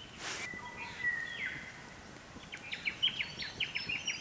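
Wild birds calling: a drawn-out whistle that drops in pitch about a second and a half in, then a run of quick, high chirps in the second half.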